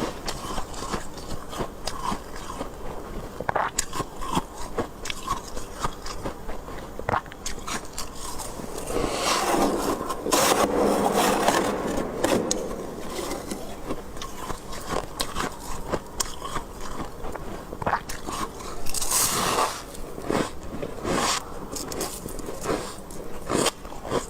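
Close-miked biting and chewing of freezer frost: squeaky, crunchy crackles in quick succession, mixed with scraping, densest and loudest about nine to thirteen seconds in.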